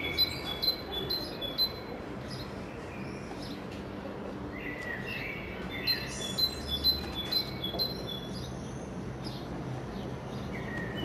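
A bird chirping in two bouts of short, high, quickly repeated notes, one at the start and one about five seconds in, over a steady low hum.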